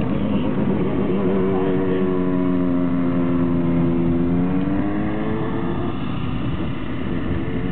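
Chevrolet Cobalt's four-cylinder engine heard from inside the cabin under steady throttle, its note bending gently in pitch, then dropping away about six seconds in, leaving road and wind noise.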